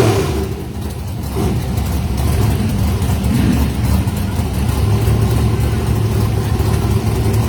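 1959 Chevrolet truck engine running steadily, a little louder right at the start and easing off within about a second.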